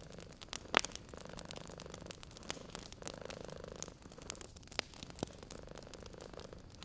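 Wood fire crackling, with irregular sharp pops, the loudest about a second in, over a domestic cat purring steadily in swells that come and go with its breaths.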